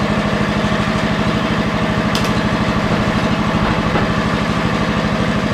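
The cast-iron Kohler engine of a Lincoln Weldanpower 150 welder-generator running steadily, with an even, fast firing beat.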